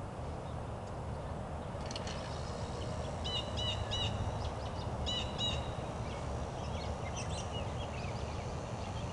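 Birds giving short, sharp chirps, several in quick groups of two or three, starting about two seconds in, over a steady low rumble.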